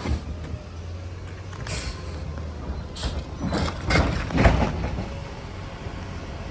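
Garbage truck engine running steadily, with a short air hiss about two seconds in and a run of knocks and clanks around the middle, the loudest about four and a half seconds in.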